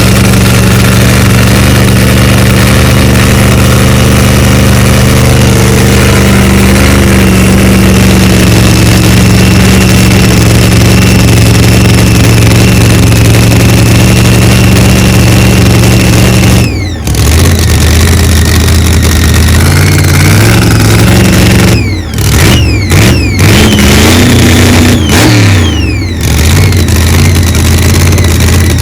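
Car engine running loud and steady, then changing pitch, rising and falling, with several brief breaks in the last third.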